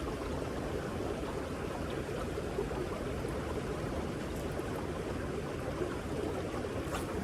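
Steady rush of running water from a stream or small waterfall, with a faint click near the end.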